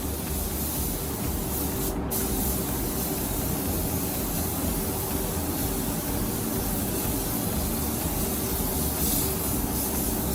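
Electric woodworking power tool running steadily: a constant motor hum under a dense hiss. The hiss drops out for an instant about two seconds in.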